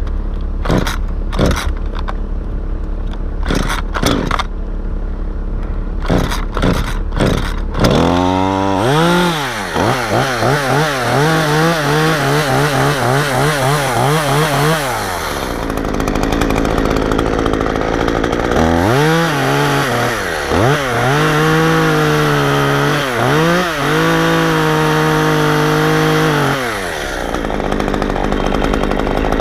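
Two-stroke chainsaw. At first it idles with a low steady hum and scattered knocks. After about eight seconds it revs up to full speed and runs in long high-revving bursts, its pitch wavering up and down, with a drop back to a low run partway through and again near the end.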